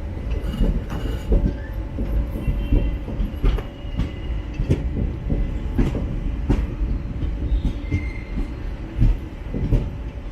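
Express train coaches running on the track, heard from on board: a steady low rumble with irregular clicks and knocks of the wheels over rail joints and a few brief, faint wheel squeals.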